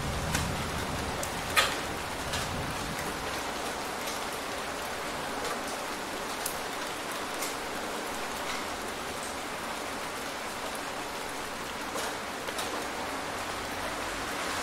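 Steady rainstorm rain falling, with a few louder drops ticking close by; the sharpest comes about a second and a half in.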